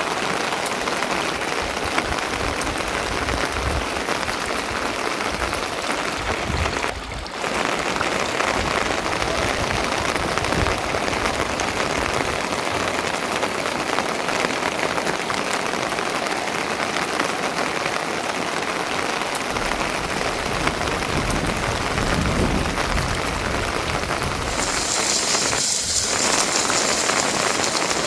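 Steady rain falling, a dense even hiss. It dips briefly about seven seconds in and turns brighter and hissier in the last few seconds.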